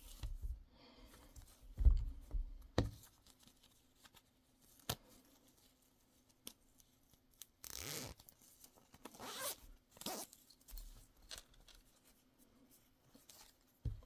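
Zipper of a garment bag being pulled open, two zips about 8 and 9.5 seconds in, among handling knocks and thumps.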